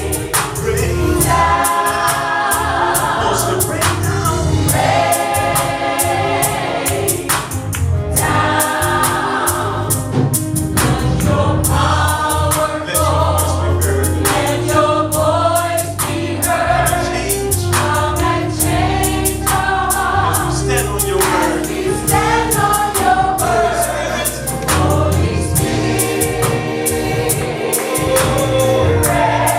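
Choir singing a gospel worship song with band accompaniment: a low bass line and a steady cymbal-and-drum beat under the voices.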